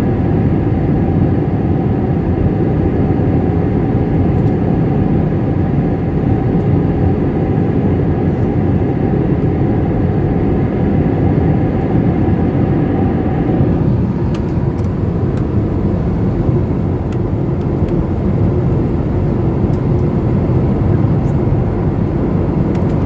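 Jet airliner cabin noise on the approach to landing: a loud steady rush of air with a steady engine hum. About two-thirds of the way through, the higher engine tones drop away and the noise settles lower.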